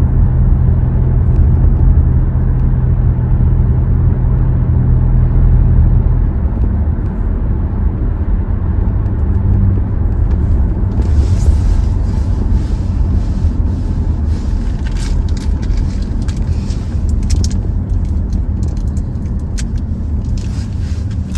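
Hyundai Tucson driving on the road, heard from inside the cabin: a steady low engine drone with road noise. The drone's pitch shifts about six seconds in.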